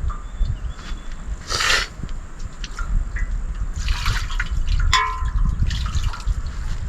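Water trickling and splashing in a few short bursts, over a steady low rumble of wind on the microphone.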